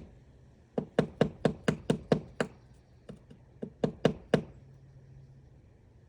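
Woodpecker pecking into wood to excavate its nest cavity: a run of sharp knocks, about four a second, with a short pause partway through, stopping about four seconds in.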